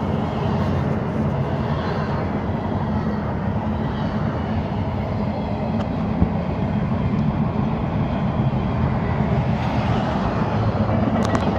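CSX freight train rolling past, a steady rumble of locomotive and wheels on rail with one sharp clank about halfway through.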